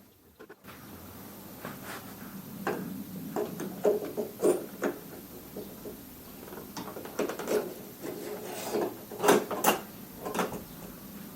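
Hand work on moped parts: scattered knocks, clicks and scraping of metal and plastic pieces being handled, with a cluster of sharper knocks about nine to ten seconds in.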